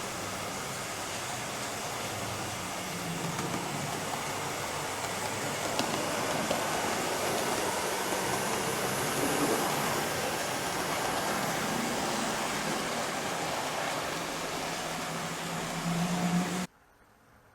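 00 gauge model trains running on a layout: a steady rumble and hiss of wheels on track with a low motor hum. It cuts off suddenly near the end.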